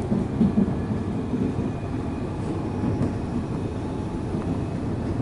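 Melbourne suburban electric train running at speed, heard from inside the passenger car: a steady rumble of wheels on the rails.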